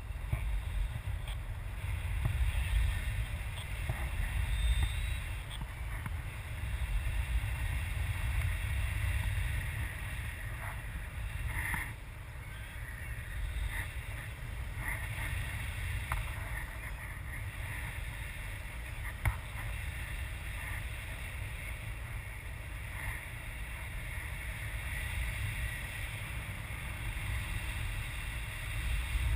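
Wind buffeting the microphone: a low, gusting rumble that rises and falls throughout, with a few faint clicks.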